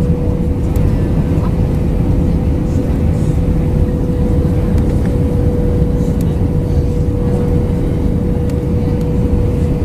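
Cabin sound inside an Airbus A319-112: the CFM56 jet engines and airflow make a steady, loud rumble with a constant hum tone running through it.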